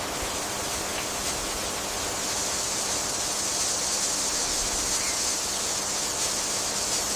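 Steady, even hiss of rainforest ambience, brightest in the high range, cutting in suddenly at the start.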